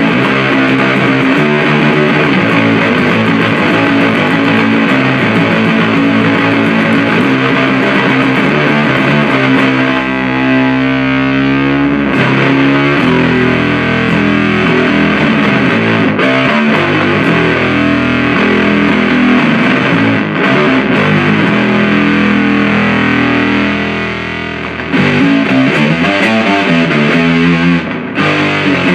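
Heavily fuzzed, distorted riffs played through a Supercoolpedals 77 Fuzz Blender, a Big Muff-style op-amp fuzz pedal, into an amplifier. The playing is thick and low-heavy, with a short dip in level about 24 seconds in.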